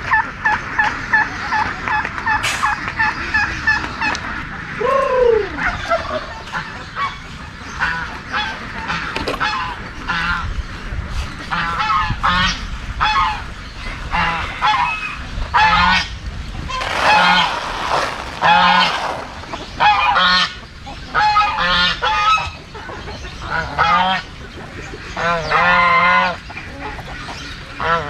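Farm fowl calling. A fast run of short repeated notes comes first, then one falling call, then many loud separate calls from several birds, some overlapping.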